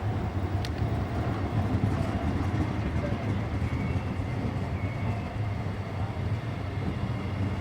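Venice Simplon-Orient-Express train rolling through a station, a steady low rumble of the train running on the rails.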